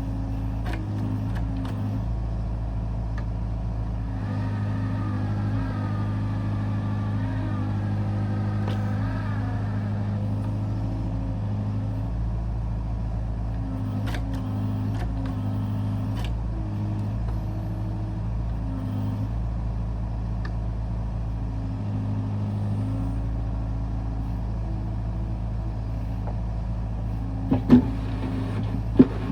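Kubota U55 mini excavator's diesel engine running steadily under work, with a wavering whine for several seconds near the start and a few sharp metallic knocks, two close together near the end.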